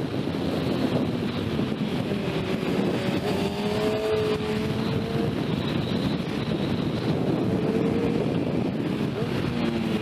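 Sport motorcycle engine pulling under load, its pitch climbing slowly twice through the gears, half-buried in heavy wind noise on the microphone at speed.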